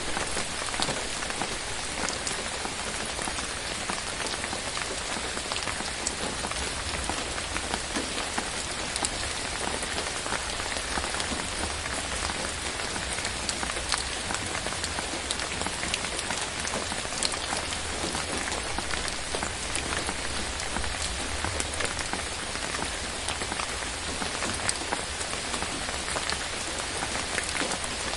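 Steady rain falling, an even hiss with many separate drops ticking through it.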